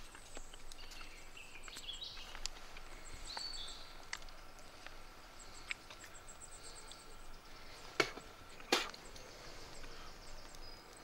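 Quiet outdoor background with small birds chirping and trilling, and two short sharp clicks close together near the end.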